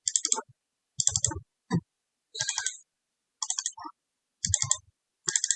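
Quick bursts of clicking from a computer mouse and keyboard, about seven short clusters of rapid ticks roughly a second apart.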